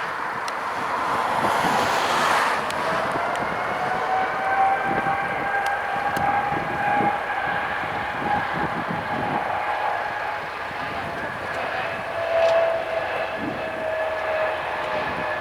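Jet airliner engines running: a whine of several steady high tones that drift slightly in pitch over a broad rushing rumble.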